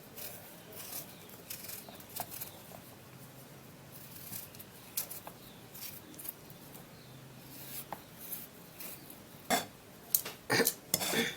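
A raw potato being peeled by hand: faint, repeated short scraping strokes of a blade on the skin, with a few louder sharp clicks near the end.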